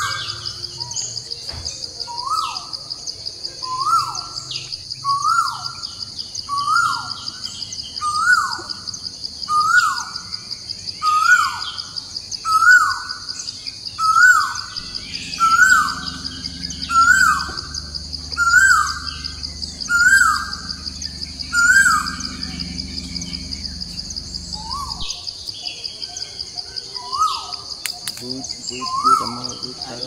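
A bird calling over and over, about once every second and a half: each call is a short note that jumps up and then falls away. The calls stop for a few seconds near the end, then start again. Under them runs a steady, high, pulsing insect drone, like cicadas.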